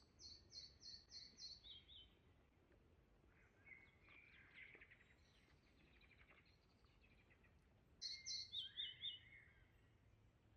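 Songbird singing faintly: a short phrase of quick repeated high notes stepping down in pitch, given near the start and again about eight seconds in, with softer twittering between.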